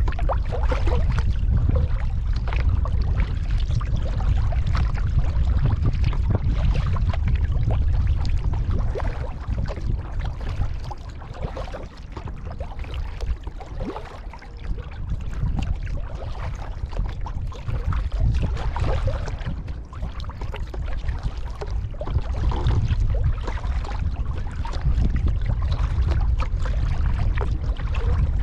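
Kayak paddle strokes: water splashing and trickling off the paddle blades and lapping at the hull, over a steady low rumble. The splashing eases off for a stretch in the middle, then picks up again.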